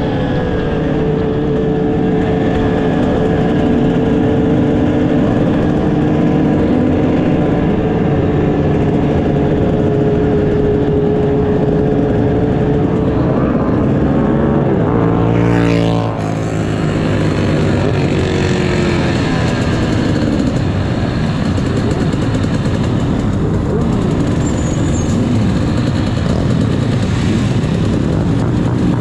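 Motorcycle engines running on a group ride, with a steady engine note through the first half. About halfway through, another vehicle passes close with a quick pitch sweep.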